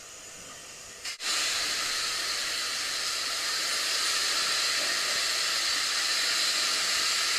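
Car-wash spray wand jetting water onto a car in a steady high hiss, cutting in suddenly about a second in.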